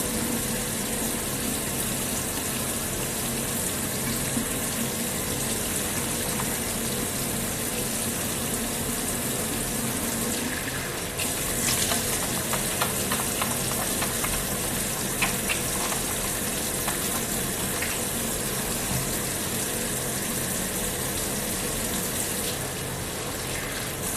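Water running steadily from a tap into a sink, getting a little louder about halfway through, with a few splashes, as from face washing.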